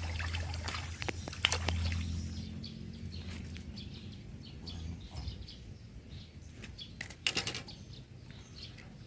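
Small birds chirping in short, scattered calls, over a low rumble that fades after about two and a half seconds. A brief loud clatter comes about seven seconds in.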